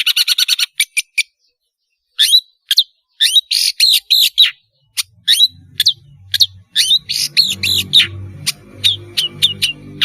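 Long-tailed shrike (pentet) singing: a fast run of sharp, harsh calls, a short pause, then a varied string of chirps and whistled notes. About halfway through, a low, rapidly pulsing croak-like sound starts underneath.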